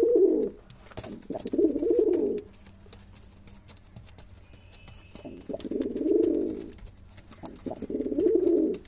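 Domestic pigeon cooing: four low, rising-and-falling coos of about a second each, with faint clicks and taps between them.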